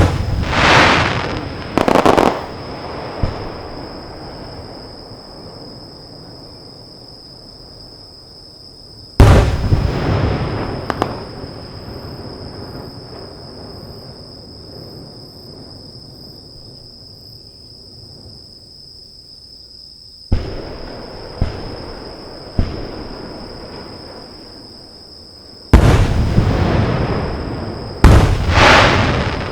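Aerial fireworks shells bursting with loud booms, each followed by a long rolling echo. There are big bursts at the start and about nine seconds in, a few sharper cracks around twenty seconds in, and a quick pair near the end. A steady high insect trill runs underneath.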